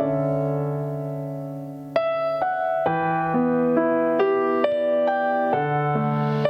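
Piano playing chords alone. A held chord dies away for about two seconds, then new chords come in about twice a second.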